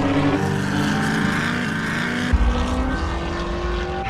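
Off-road race vehicle engine running, with a deeper, heavier rumble coming in about two seconds in.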